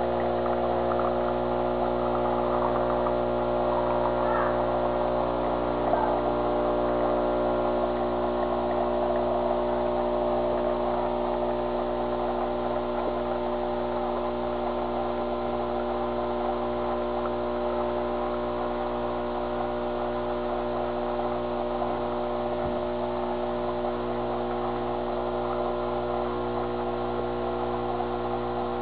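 Saeco Espresso Italiano super-automatic espresso machine running while it makes coffee: a steady hum with a rougher noise over it that eases off after about twelve seconds.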